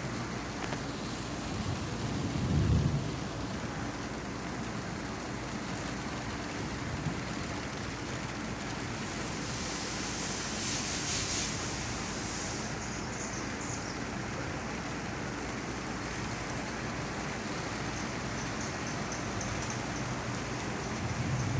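Steady rain falling during a thunderstorm, with a low rumble of thunder about two to three seconds in. Around ten seconds in the hiss briefly grows brighter.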